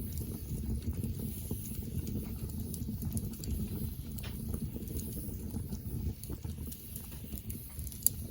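Wood campfire burning with a dense, low, steady crackle and scattered sharp pops, one louder pop near the end.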